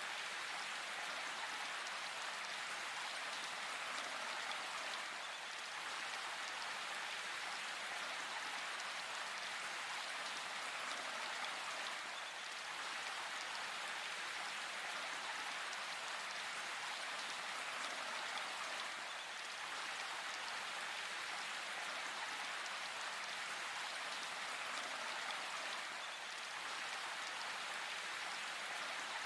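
Steady rain falling, an even hiss of many raindrops on foliage and ground.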